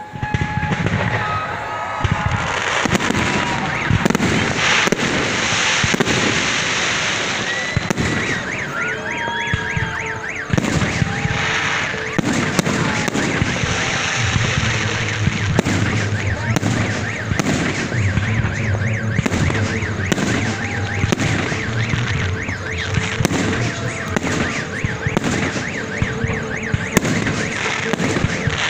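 Fireworks display: a steady run of bangs from bursting aerial shells, with whistling and warbling tones over them.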